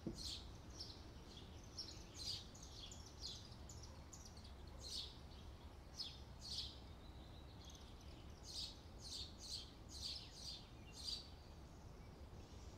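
Faint bird chirps: short high calls, scattered and in quick runs, over a low steady hum.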